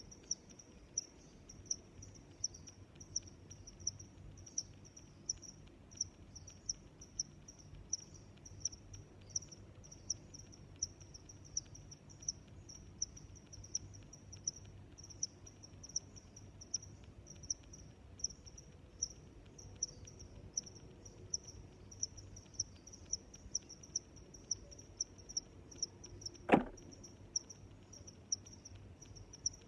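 A cricket chirping in a steady rhythm, about one and a half high chirps a second, over a faint low background hum. A single sharp knock sounds near the end.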